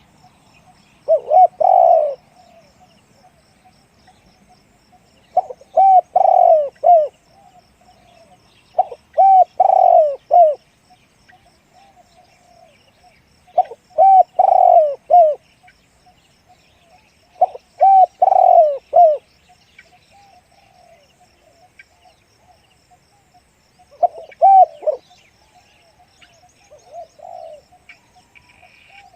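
Spotted dove cooing: a short phrase of several low, rounded coo notes, repeated seven times at intervals of about three to five seconds.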